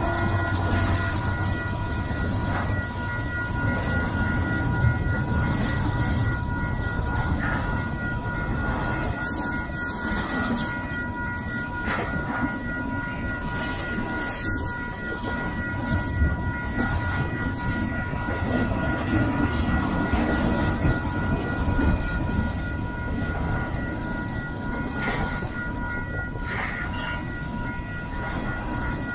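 Double-stack intermodal well cars of a long freight train rolling past: a steady rumble of steel wheels on rail, with a thin steady high-pitched tone over it.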